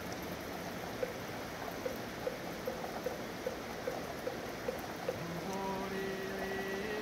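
Steady rain, with a wooden fish (moktak) struck evenly about two and a half times a second, keeping time for Buddhist sutra chanting. Near the end the knocking stops and a chanting voice comes in on a held note.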